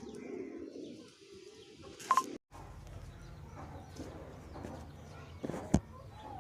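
Aseel chickens making low, soft calls during the first part, with a sudden break about two and a half seconds in and a sharp knock near the end.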